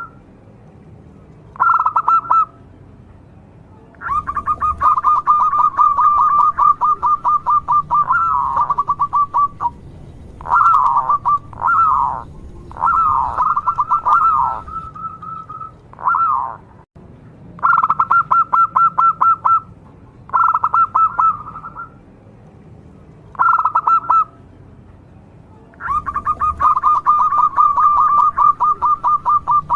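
Local zebra dove (perkutut) singing: bouts of fast, rippling cooing notes, some brief and some running several seconds, separated by short pauses. The longest bouts come about four seconds in and near the end.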